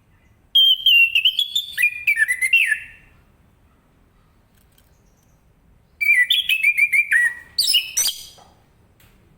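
Orange-headed thrush singing in two phrases of rapid, varied whistled and chattering notes, each about two and a half seconds long, with a pause of about three seconds between them. A sharp click comes near the end of the second phrase.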